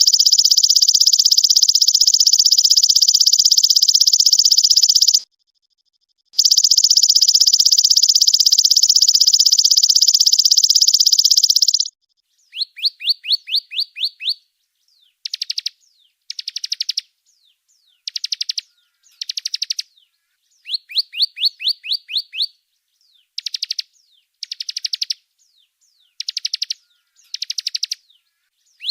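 Songbird masteran recording: two long, dense, high buzzing trills of about five seconds each, then from about twelve seconds in, repeated short bursts of rapid high chirps, each burst about a second long with gaps between.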